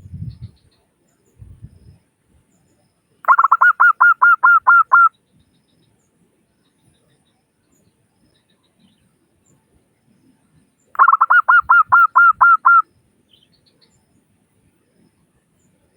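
Zebra dove (perkutut) song: two phrases of about eight quick repeated cooing notes each, roughly eight seconds apart.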